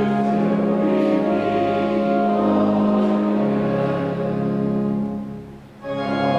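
Church organ playing sustained chords with the congregation singing a hymn; the chord dies away about five and a half seconds in and the organ comes back in with a new chord just before the end.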